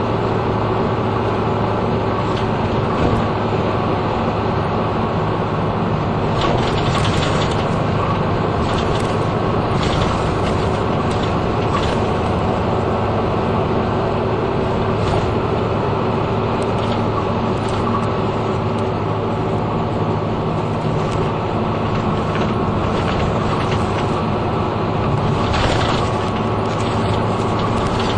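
Interior of a route bus under way: the engine runs with a steady hum and road noise, with scattered rattles and clicks from the cabin, a burst of them near the end.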